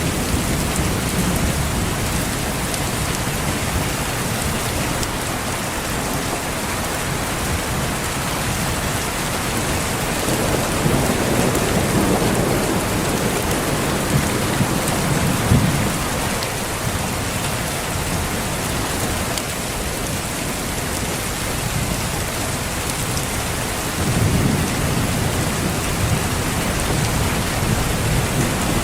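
Steady heavy rain falling in a thunderstorm, with rolls of thunder rumbling in about ten seconds in and again near the end.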